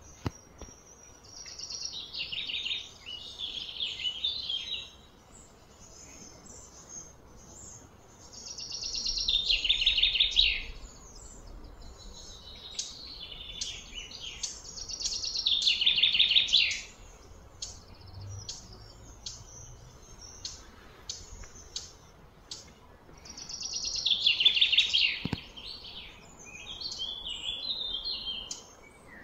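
A bird singing rapid, trilled phrases, each about two seconds long and repeated every several seconds, with short chirps in between.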